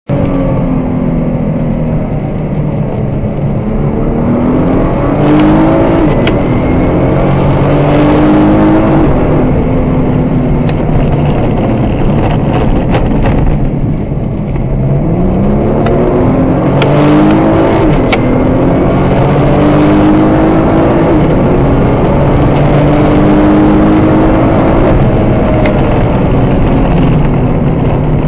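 Car engine heard from inside the cabin, accelerating hard through the gears on a circuit lap. Its pitch climbs and drops back at each upshift, then holds fairly steady between accelerations.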